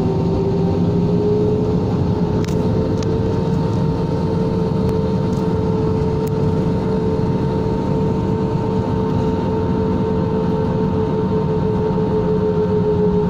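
Airbus A320 jet engines running steadily: a constant whine of several held tones over a heavy rumble, with a few faint clicks about two and a half to five seconds in.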